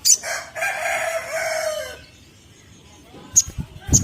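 A rooster crowing once, a held call of nearly two seconds starting just after the beginning. Short, sharp, high chirps of an olive-backed sunbird come once at the start and twice near the end.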